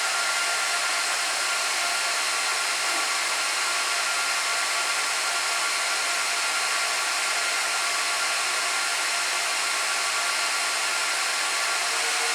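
Cooling fans of a Gigabyte R180-F34 1U rack server running fast: a steady rushing noise with several faint steady whines. The server is powered on and hanging in POST on code BD, which is taken for a bad memory module.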